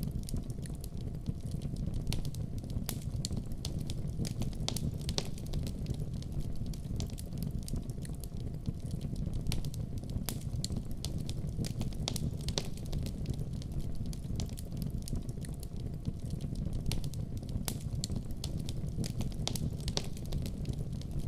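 Fire in a fireplace crackling, with a steady low rumble of flames and frequent sharp snaps and pops at irregular intervals.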